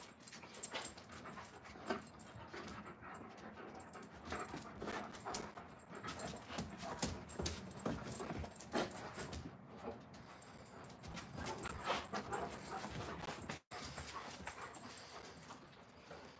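Quiet sounds of Alaskan Malamute puppies close to the microphone, with many irregular small clicks and scuffs.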